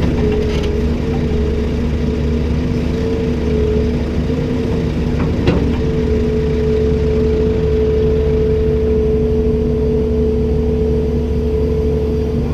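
Komatsu PC290-10 excavator's diesel engine running steadily, with a steady whine over the low hum. A single short knock comes about halfway through.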